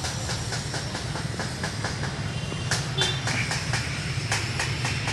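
Train wheels clicking over rail joints at about three or four clicks a second, over a steady low rumble.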